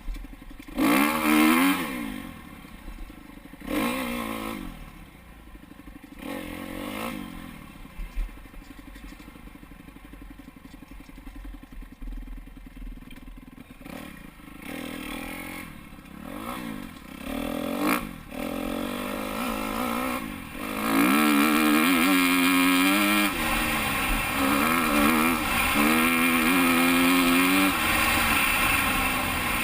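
Dirt bike engine revving in short throttle bursts, easing off to a quieter stretch through the middle, then running loud and steady from about two-thirds of the way in.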